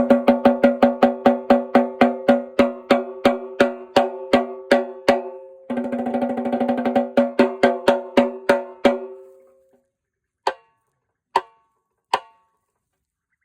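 Snare drum played with sticks, each stroke ringing with a clear pitch: a steady run of about five strokes a second, then a fast roll, then strokes that fade away. Three single hits follow, spaced nearly a second apart.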